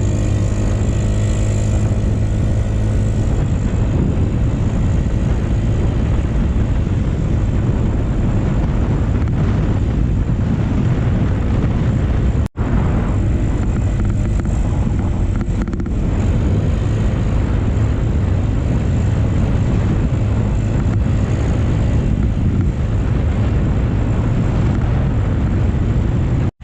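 Motorcycle in motion: a steady, heavy rumble of wind on the microphone with the engine running underneath. The sound cuts out for an instant about halfway through.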